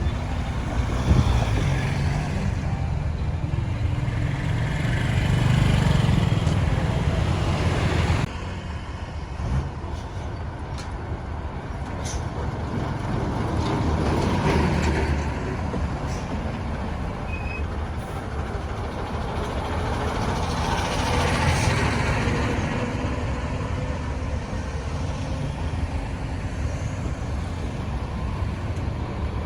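Busy road traffic: the engines and tyres of passing trucks, cars and motorbikes. It swells several times as vehicles go by, and the level drops abruptly about eight seconds in.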